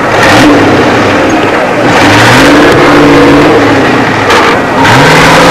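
Engine of an off-road trials car revving hard in the mud, its pitch climbing in three surges about two seconds apart.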